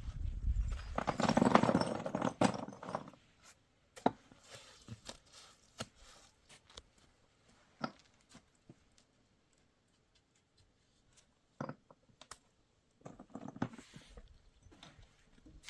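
Handwork sounds: rustling and scraping for about two seconds, then scattered light knocks and clicks with quiet gaps between, and another short spell of rustling near the end.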